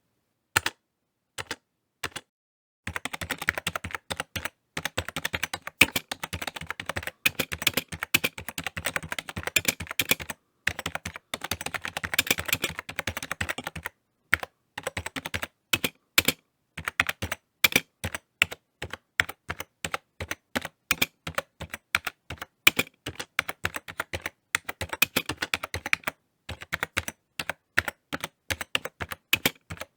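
Typing on a computer keyboard: fast runs of key clicks with short pauses, sparser and more irregular keystrokes in the second half.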